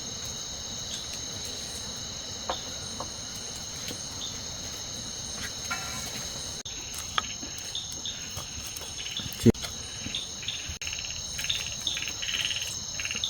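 Insects, most likely crickets, trilling in a steady high-pitched chorus. A single sharp knock comes about nine and a half seconds in, and a rapid pulsing call joins near the end.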